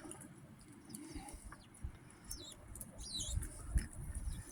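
Small birds at a feeder giving a few short, high chirps, mostly in the middle and latter part, over a low rumble of wind buffeting the microphone.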